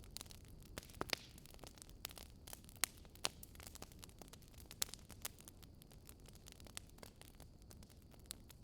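Campfire crackling: irregular sharp pops and snaps of burning wood over a soft steady hiss, with a few louder pops about one and three seconds in.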